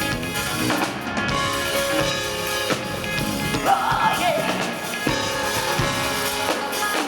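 Live rock band playing a mid-tempo song, with drum kit, guitars and a singing voice that wavers in pitch around the middle.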